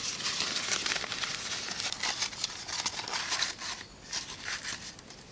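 Dry tinder and kindling crinkling and rustling as it is handled, a dense crackle for about three and a half seconds, then a few short bursts near the end.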